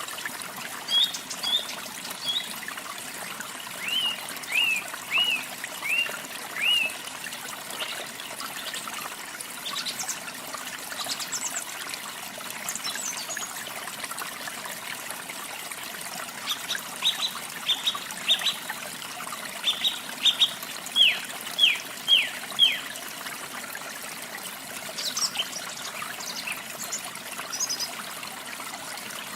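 Steady trickle of falling water with small songbirds calling over it: two bouts of short, quick downward-sweeping chirps, one in the first few seconds and one about two-thirds of the way through, with scattered high chirps near the end.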